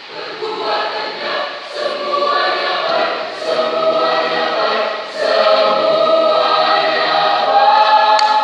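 Choir singing together, growing louder through the passage and holding a loud sustained chord over the last few seconds, with short sibilant consonants cutting through now and then.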